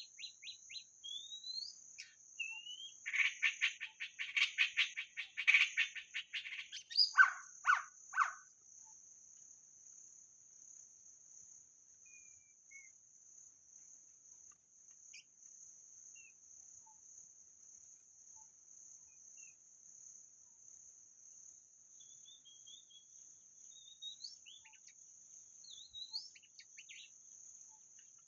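White-rumped shama singing: a fast run of rattling notes, then a few loud whistled notes in the first several seconds, then only scattered faint whistles. A steady high insect drone runs underneath.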